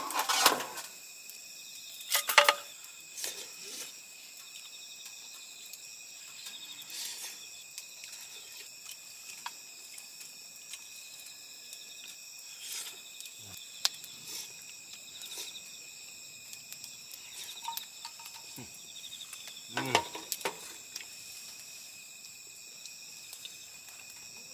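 Autumn crickets and other insects chirping in a steady chorus, with a few scattered clicks and knocks, such as utensils or dishes being handled.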